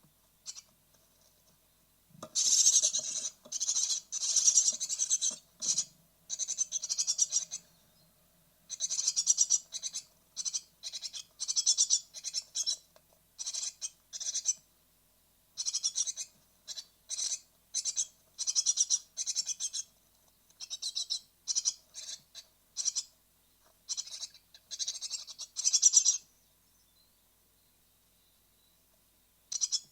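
Great tit nestlings, nearly ready to fledge, calling from inside a nest box in repeated high-pitched bursts of about a second each. They start about two seconds in and fall quiet for a few seconds near the end.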